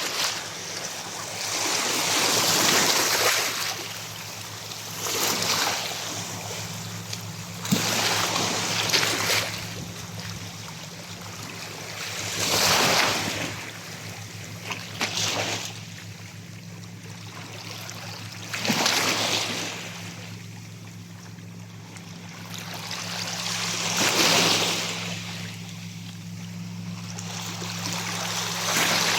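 Waves washing onto the beach, the rush of surf swelling and falling back about every three to five seconds, over a steady low hum.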